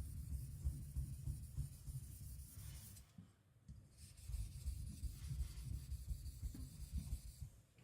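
Kiridashi blade rubbing back and forth on a wet whetstone in quick strokes while the edge is refined, with a short pause about three seconds in.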